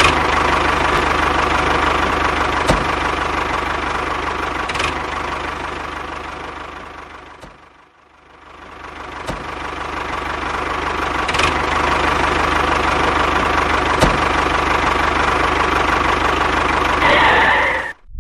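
Small motor of a DIY mini tractor running steadily with a mechanical whir and a few sharp clicks. It fades away about eight seconds in, comes back, and cuts off near the end.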